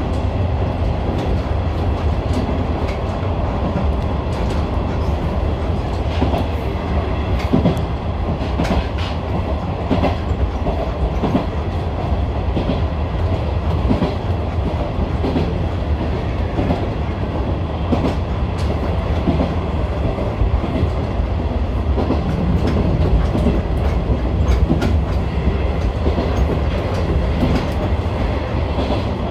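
Izuhakone Railway Sundzu Line electric train running steadily along the track, heard from inside the front car behind the cab: a continuous low rumble of wheels and running gear with scattered clicks of the wheels over the rails.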